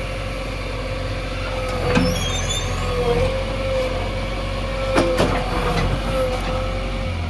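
JCB 3DX backhoe loader's diesel engine running steadily with a constant whine. Sharp knocks come about two seconds in and twice around five seconds in.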